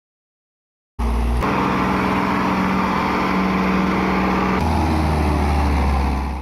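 Diesel engine of heavy machinery running, in spliced pieces that change abruptly about half a second and again about three and a half seconds after it starts; it begins and stops suddenly.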